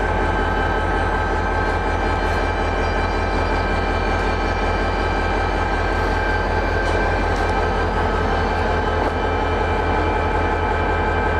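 DSB diesel-electric locomotive idling while it waits to depart: a steady low engine throb with several steady whining tones over it.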